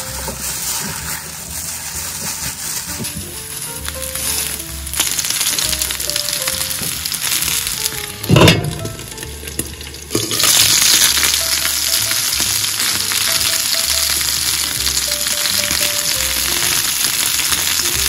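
Starch-coated chicken drumettes sizzling as they pan-fry in oil, the sizzle louder and steady from about ten seconds in, with one sudden loud burst a little past eight seconds. Soft background music plays beneath.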